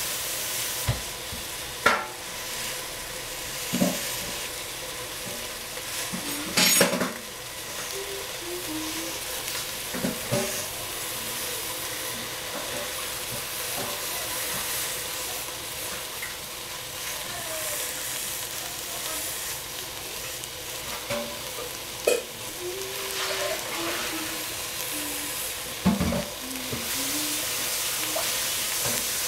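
Bok choy sizzling in a steel pot on the stove: a steady frying hiss, broken by a few short pops and knocks.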